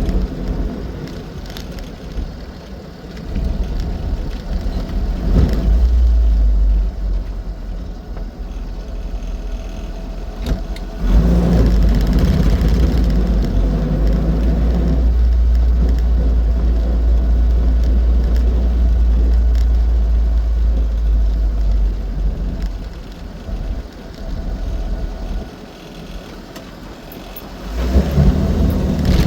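Austin 7 Ruby on the road, its small four-cylinder side-valve engine running under a heavy low rumble of road and driving noise that swells and eases as it goes, loudest for about ten seconds in the middle and quieter for a while near the end.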